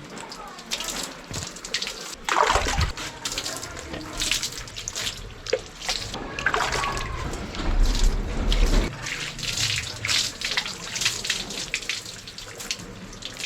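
Water splashing irregularly as it is poured from a mug over a bicycle, with a few heavier splashes.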